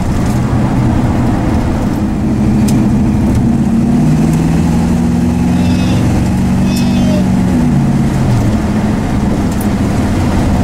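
The 1966 Dodge Dart GT's 273 V8, heard from inside the cabin while driving. Its note rises as the car accelerates about four seconds in, holds, then drops back as the throttle eases off near eight seconds.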